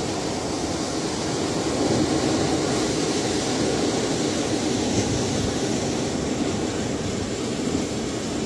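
Ocean surf: a steady, unbroken rush of waves, swelling slightly about two seconds in.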